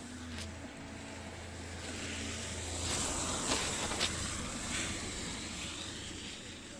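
A vehicle passing on the street, its rushing noise swelling to a peak about halfway through and then fading.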